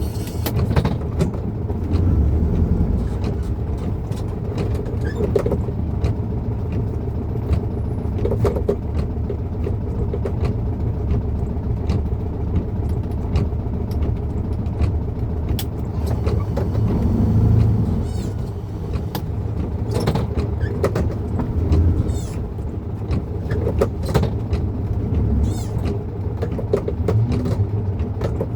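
Volkswagen Beetle's air-cooled flat-four engine running steadily on the move, a low drone heard from inside the cabin, with scattered light clicks and ticks throughout.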